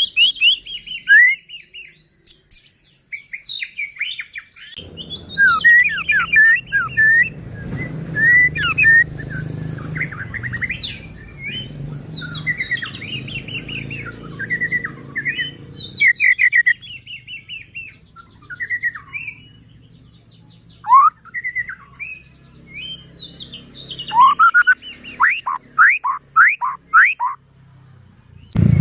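White-rumped shama (murai batu) singing a varied song of clear whistles, fast trills and rattling chatter, with a run of rising sweeping whistles near the end. A low steady rumble sits under the song from about five to sixteen seconds in.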